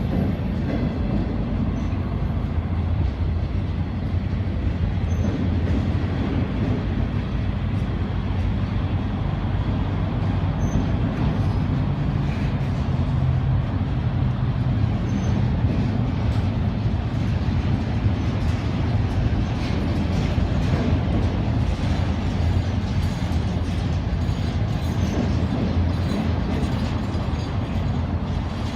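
Intermodal freight train rolling past: a steady low rumble of wheels on rail that swells a little in the middle and keeps going throughout.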